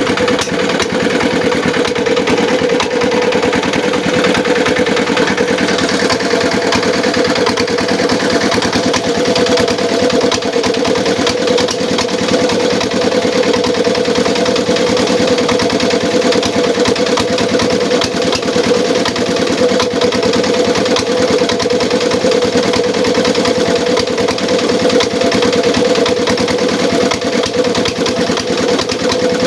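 Engine running steadily at a constant speed, driving a homemade gambir-leaf grinding and pressing machine.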